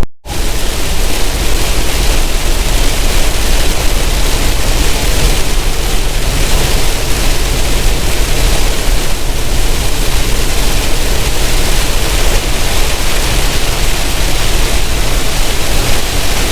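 Steady loud rushing noise of a semi truck driving on a rain-wet highway: tyre spray, rain and wind noise with a low rumble underneath.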